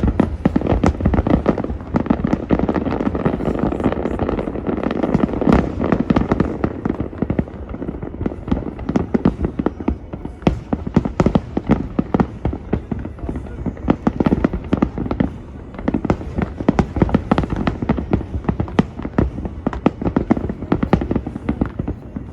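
Fireworks display going off: a dense, unbroken run of bangs and crackles, several a second, over a low rumble.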